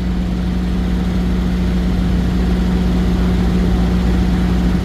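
Semi-truck diesel engine idling steadily: a constant low hum that does not change pitch.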